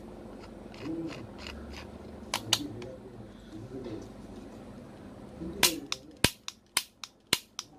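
Plastic toy airsoft revolver's mechanism clicking as it is worked by hand: two sharp clicks a couple of seconds in, then a fast run of sharp clicks, about four a second, near the end.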